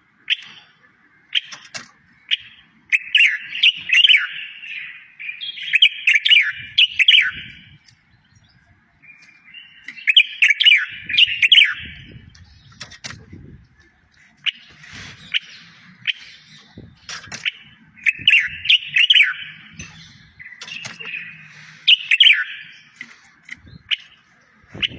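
Songbird singing in repeated phrases of rapid, warbling twitters, each lasting a second or two with short pauses between them.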